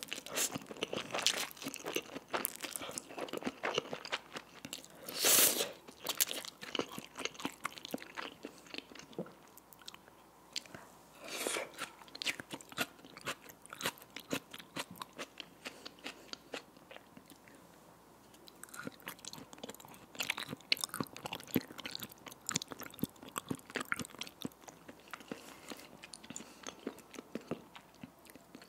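Close-miked wet chewing of spicy cheese instant noodles: a steady run of small mouth clicks and squishes, with a couple of louder noodle slurps about 5 and 11 seconds in.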